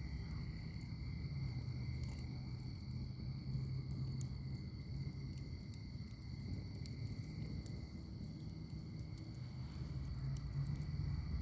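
Wood fire crackling in a fire pit, with scattered sharp pops over a steady low rumble of the flames. A steady, high insect trill, like crickets, runs underneath.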